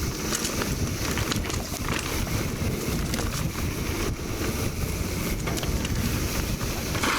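Wind rushing over the microphone and the rumble and rattle of a mountain bike riding a dirt trail, with scattered clicks from the bike. A steady high buzz from a chorus of 17-year periodical cicadas runs underneath.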